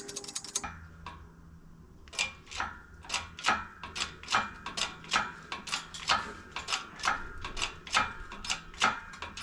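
Music cuts off shortly in. Then a ratchet wrench clicks steadily, about two to three clicks a second, as it turns a screw-type press forcing a suspension bushing, over a low steady hum.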